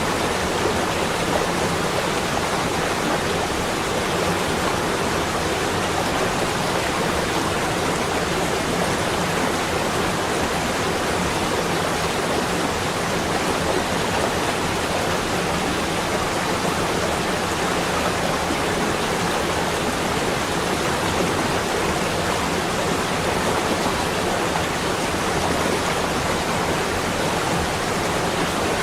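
Steady, unbroken rushing noise with no separate events, like a continuous ambient nature-noise track.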